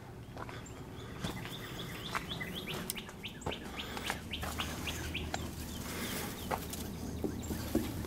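Wild birds chirping in woodland: a run of short, quick high notes repeated many times.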